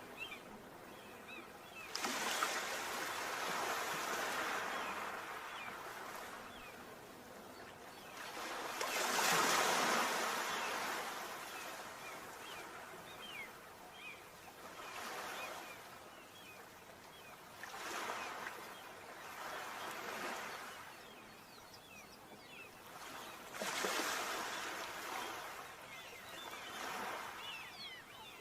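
Sea waves breaking on a shore: surges of surf that swell and fall back every few seconds, the loudest about nine seconds in.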